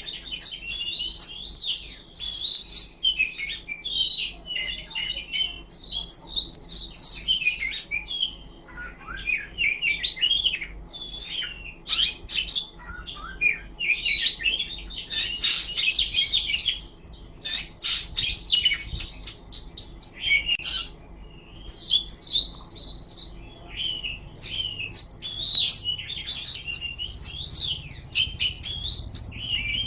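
Oriental magpie-robin (kacer) singing a loud, rapid run of varied whistles and chattering notes, with only brief pauses between phrases.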